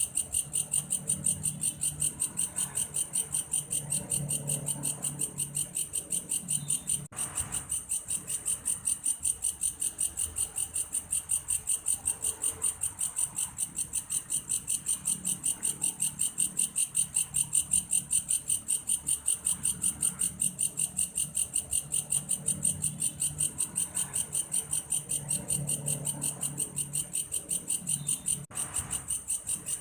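Belalang kayu, a cricket-like singing insect, calling in a fast, even train of shrill pulses, several a second. The pulsing breaks off for a moment twice. A soft low sound swells and fades underneath.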